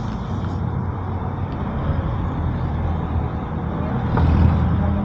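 A vehicle engine running steadily with a low hum, swelling briefly about four seconds in.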